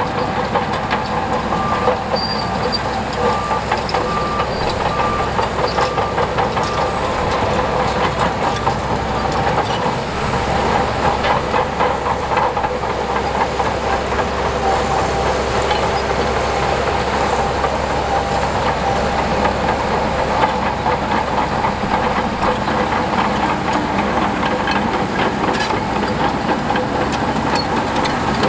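Diesel engine of a tracked earthmoving machine running steadily under load, with a continuous rapid clatter of steel crawler tracks and a steady whine over it.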